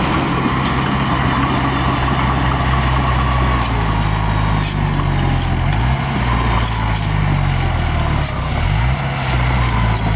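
Heavy diesel engine of a small bulldozer running steadily, its pitch shifting briefly about six seconds in and again near the end, with scattered sharp metallic clicks and clanks.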